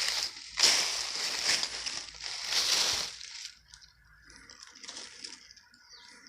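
Footsteps crunching through dry leaf litter, several heavy crunches in the first three seconds, then the walking stops and only faint forest sound remains.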